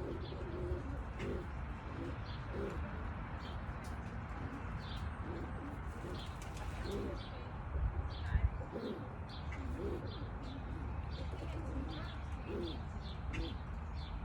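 Heitzman Sion racing pigeons cooing over and over in short low calls, with one louder low bump about eight seconds in.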